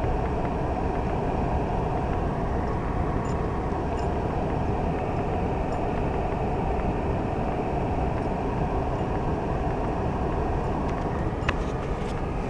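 Steady engine and road noise heard inside a car's cabin while driving. A few faint clicks come near the end.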